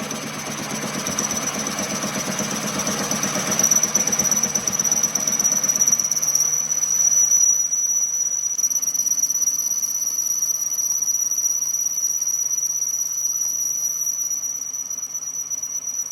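Workshop machine running with a steady high-pitched squeal over a low hum. A rougher noise under it fades about seven or eight seconds in, leaving the squeal and hum.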